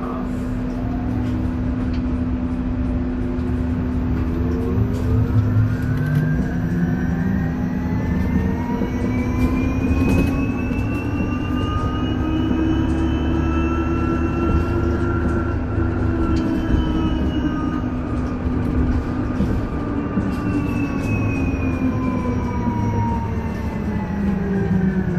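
Isuzu Erga EV battery-electric city bus driving, heard from on board. Its electric drive whine rises in pitch as the bus speeds up over about the first fifteen seconds, then falls as it slows, over a steady road rumble.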